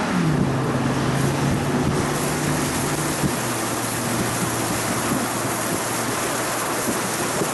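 Car engine rising in pitch as it accelerates, shifting right at the start, then holding a steady drone under a loud, even rush of wind and road noise from the moving vehicle.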